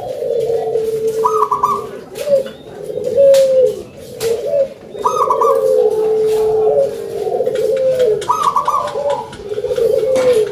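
Local perkutut (zebra dove) cooing repeatedly, low trilled phrases each opened by a higher note, a new phrase starting about every three seconds.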